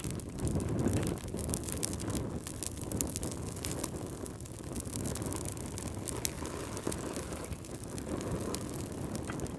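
Wood fire crackling: many small sharp pops and snaps over the low, steady sound of the flames.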